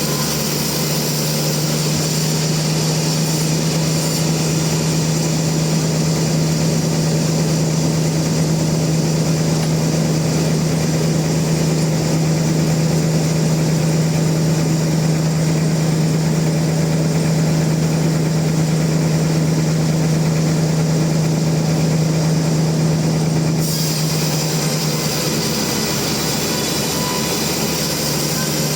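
Sawmill machinery running steadily with a constant low hum; the high hiss in the sound becomes louder again abruptly about five seconds before the end.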